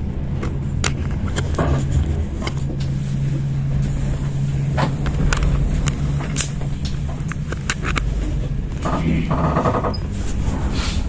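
Intercity train rumbling along, heard from inside a carriage, with a low steady hum from about two to eight seconds in. Sharp clicks and knocks run throughout, and there is a brief fast rattle about nine seconds in.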